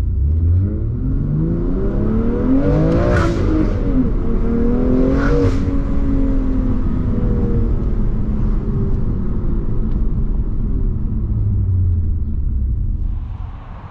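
BMW M2 Competition's twin-turbo 3.0-litre inline-six, on an equal-length midpipe and axle-back exhaust, accelerating hard: its pitch climbs twice, each climb ending in a short sharp crack at the upshift, then the engine eases off with its pitch slowly falling and settles to a low rumble before fading near the end.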